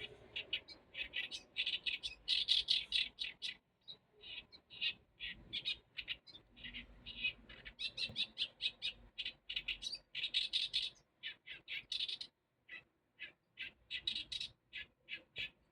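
Songbird singing from a reed thicket: phrases of rapid, repeated notes with short pauses between them.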